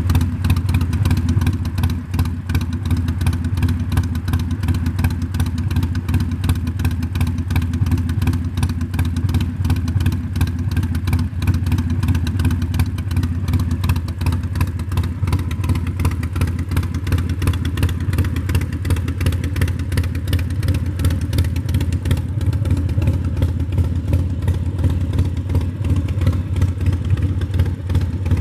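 2016 Harley-Davidson Sportster 1200's air-cooled V-twin idling steadily through an aftermarket Vance & Hines exhaust, a dense, even train of low exhaust pulses.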